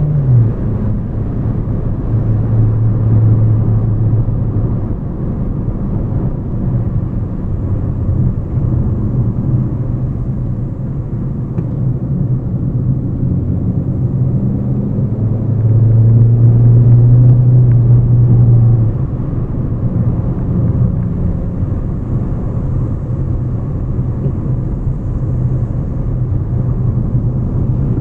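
Hyundai Elantra car engine and road noise while driving, a low drone whose pitch shifts up and down, swelling louder for a few seconds a little past the middle.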